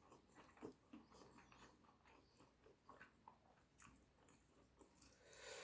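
Faint chewing, a scatter of soft mouth clicks, with a slightly louder noise near the end.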